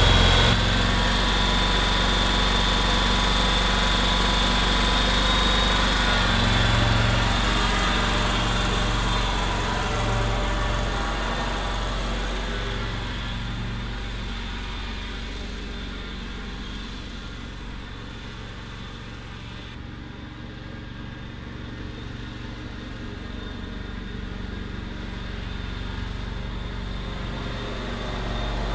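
2011 John Deere Z910A zero-turn mower's engine running steadily after a fresh oil change. It fades gradually through the middle and grows louder again near the end.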